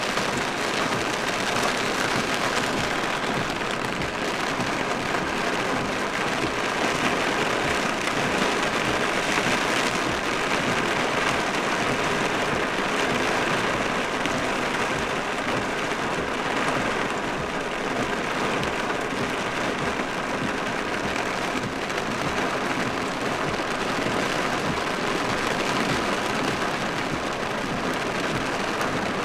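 Steady, heavy rain drumming on a truck's roof and windows, heard from inside the cab as a dense, even patter of drops.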